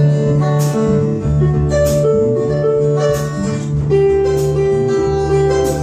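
A blues-rock band playing instrumentally, led by plucked guitar over a steady low bass line, with a sharp accent about once a second.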